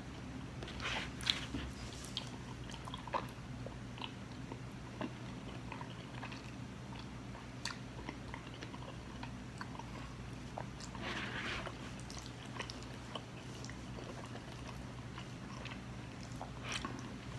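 A person chewing a mouthful of food close to the microphone, with soft wet smacks and clicks and a few short crunchy bursts, over a steady low hum.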